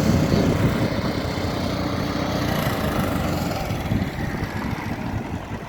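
Road traffic: vehicle engines running in a steady rumble that eases a little near the end.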